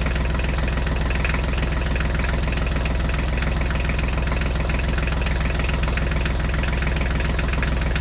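Tractor engine idling steadily, a low even running sound with no change in speed.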